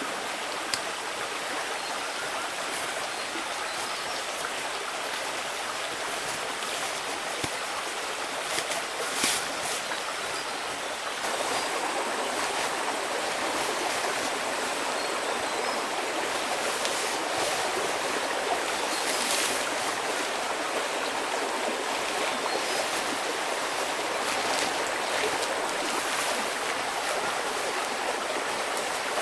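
Steady rush of a flowing stream, turning louder about eleven seconds in, with a few brief clicks or splashes over it.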